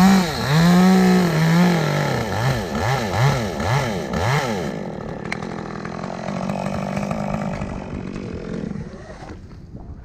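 Chainsaw cutting through a limb of a dead tree, its engine revving up and down several times in the first few seconds, then running at a steadier, lower speed before dying away near the end.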